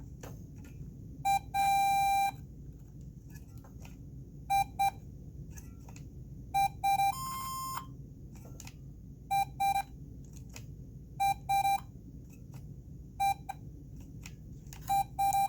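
Electronic beeps from a Golden Big Bird's Talking Bingo toy's sound chip: short buzzy tones in pairs and triplets about every two seconds, with two longer held tones. Faint clicks between them and a steady low hum.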